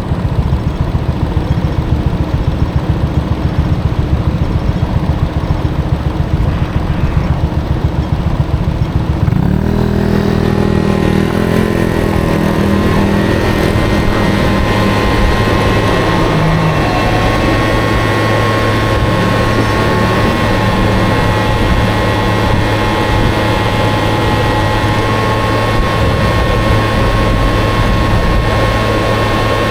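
Small Honda Dio scooter engine running under a low, pulsing wind rumble; about ten seconds in its pitch climbs as it accelerates, then holds at a steady cruising drone.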